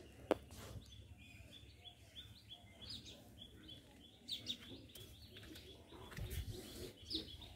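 Small birds chirping faintly in the background, a run of short high notes repeating throughout, with one sharp click about a third of a second in.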